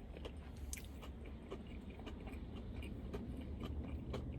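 A person chewing food close to the microphone: scattered faint clicks and crunches over a low steady hum.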